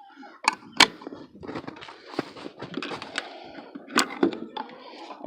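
Hands rummaging through a chicken nest box while searching for eggs: rustling with three sharp knocks, two about half a second in and one about four seconds in.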